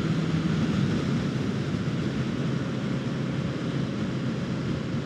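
Kawasaki Ninja 650's parallel-twin engine running at a steady pace while riding, under a constant rush of wind over the helmet microphone.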